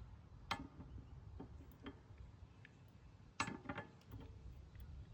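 Light metal clicks and clinks of sockets being tried on a lawnmower blade bolt, with two sharper clicks about half a second and three and a half seconds in.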